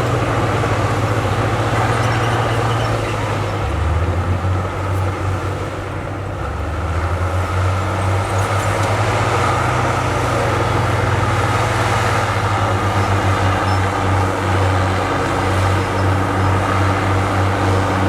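Heavy diesel engine of earthmoving machinery running steadily, with a strong low engine note. The note shifts and the sound dips slightly about four seconds in, then picks up again about two to three seconds later.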